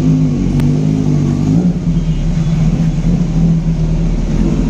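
Sportbike engine running steadily at low revs as the motorcycle is ridden slowly into a wash bay.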